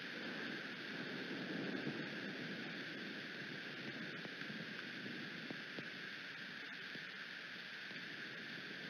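Steady rain and wind noise, with a few faint ticks scattered through it.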